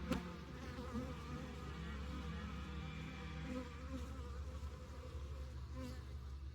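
Honey bees buzzing at a hive entrance: a steady hum of many bees, with the wavering buzz of single bees flying close past. There is a sharp click just after the start.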